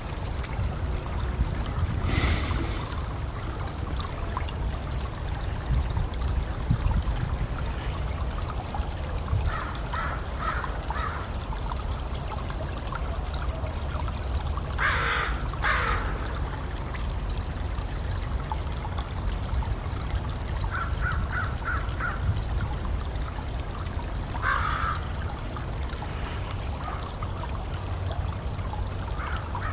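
Wild bird calls over a steady low rumble: short runs of quick repeated notes, and a few louder, harsher calls, the loudest two coming close together about halfway through.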